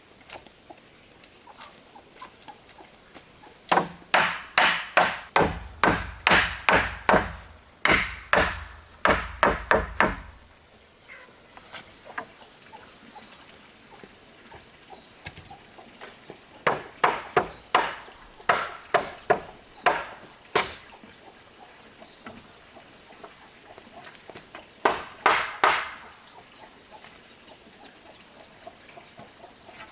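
Repeated blows of a tool striking wood, in three runs of quick, evenly spaced strikes about two to three a second, the first and longest lasting several seconds, a shorter run near the middle and a brief one near the end.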